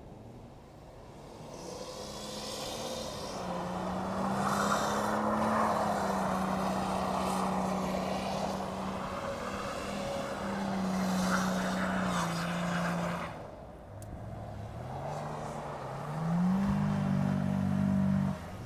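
BMW saloon engine revving hard as the car drifts on snow, its pitch wavering up and down with the wheelspin over a steady rush of noise. It eases off about thirteen seconds in, then revs up again near the end.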